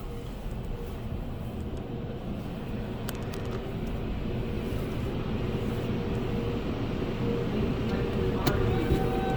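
Car wash tunnel machinery heard from inside a car: a steady motor hum and low rumble that grows gradually louder, with a few short clicks and knocks.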